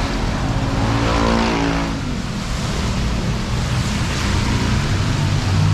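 A motor vehicle driving past on a wet street, its engine note clearest about a second in, over a steady hiss of rain and wet road noise. Another engine comes up near the end.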